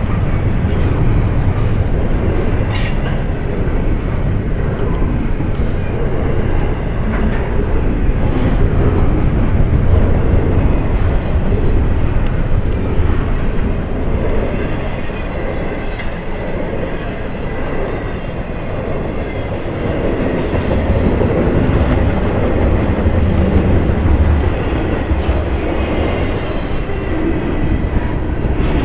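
A CSX double-stack intermodal freight train's container cars rolling past close by: a loud, continuous rumble of steel wheels on rail, with a few sharp clicks as the wheels cross rail joints.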